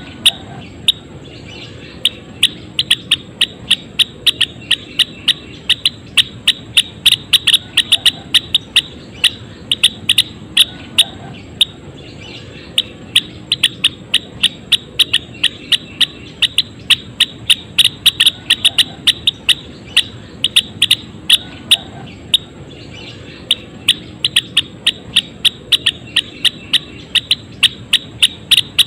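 Gelatik wingko bird calling busily: a long series of short, sharp chips, about two to three a second, in runs with a couple of brief pauses.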